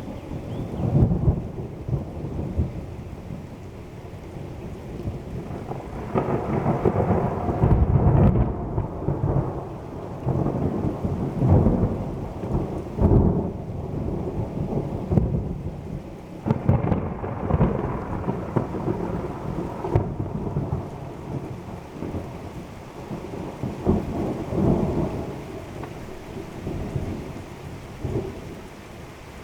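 Thunder rumbling and rolling in repeated waves over steady heavy rain during a thunderstorm.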